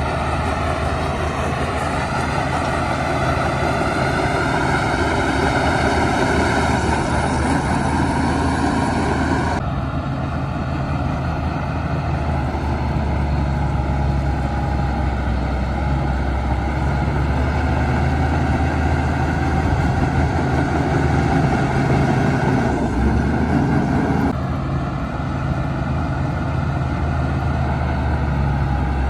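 Heavy diesel earthmoving machinery, a bulldozer and dump trucks, running steadily with a deep engine drone and a higher whine. The sound changes abruptly twice, about a third of the way in and again near the end.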